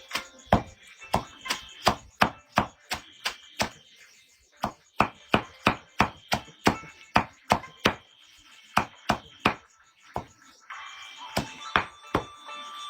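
Rapid, even chopping strikes, about three a second, with brief pauses about four and ten seconds in.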